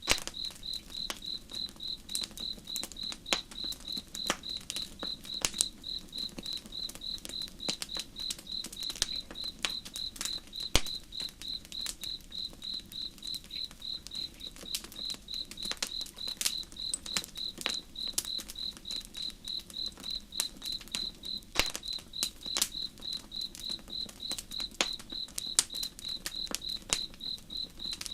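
A cricket chirping in a steady, even rhythm over a crackling campfire, with sharp pops from the burning wood scattered irregularly through it.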